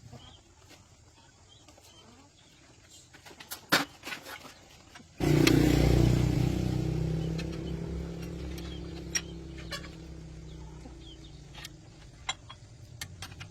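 A few sharp metallic clicks and knocks, then an engine starts abruptly about five seconds in and keeps running with a low, steady rumble that slowly grows quieter.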